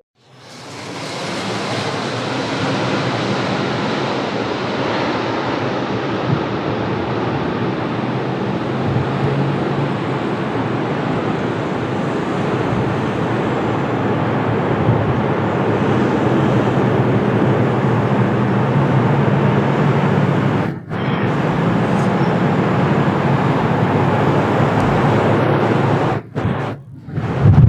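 Steady loud rushing of strong, gusty wind at the airfield mixed with jet-engine noise from aircraft, building up over the first couple of seconds, with a few brief sudden drops near the end.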